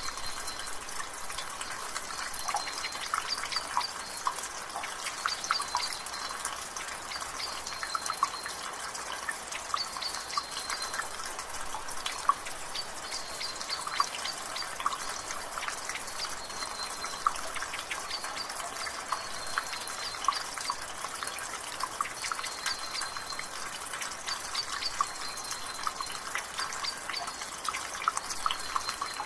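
Water dripping from a rain gutter in a drizzle: many quick, irregular drips over a steady soft rain hiss. A bird gives a short high chirp again and again, every second or two.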